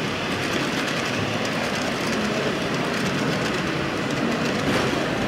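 A passenger train rolling steadily along the track, heard as an even, continuous running noise.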